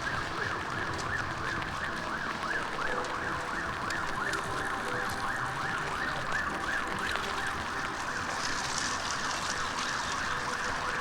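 A siren warbling rapidly up and down, about two to three sweeps a second, over the steady hiss of light rain.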